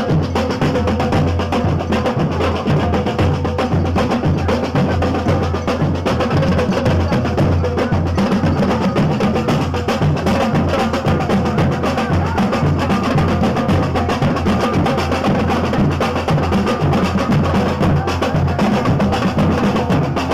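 Brass band playing, with drums and percussion prominent throughout.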